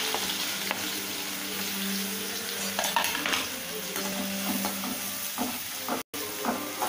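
Sliced onions and green chillies sizzling in hot oil in a steel kadai, stirred with a perforated steel spatula that scrapes and taps against the pan now and then.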